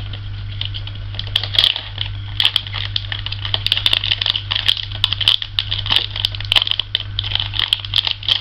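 Plastic snack packaging crinkling and crackling as it is opened by hand, a dense irregular run of sharp crackles, over a steady low hum.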